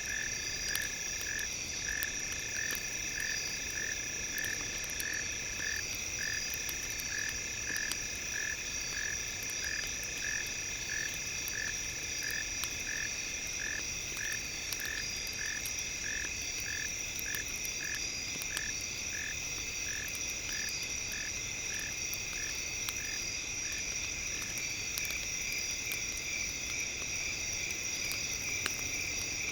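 Campfire crackling in scattered faint clicks, mixed with a steady high-pitched drone of several tones. An animal call, like a frog's, repeats about twice a second and fades out a few seconds before the end.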